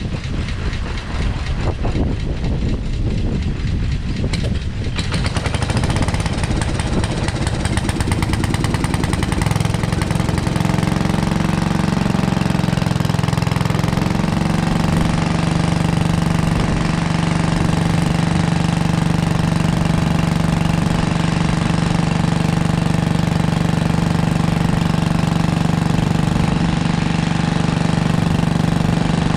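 Simplicity Landlord garden tractor engine cranking and catching about five seconds in, then running unevenly with its speed wavering before it settles into a steady idle. It is firing again on a new coil and points/condenser, after losing spark.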